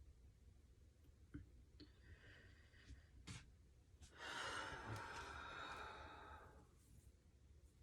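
A person's long sigh: one breathy exhale starting about four seconds in and lasting about two and a half seconds, after a few faint clicks.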